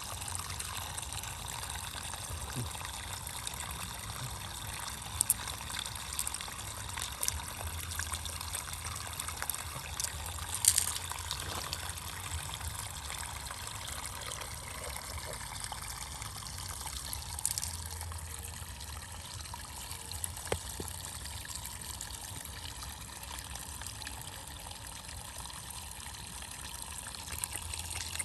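Water trickling and splashing steadily, with a few short sharp clicks now and then, the loudest about eleven seconds in.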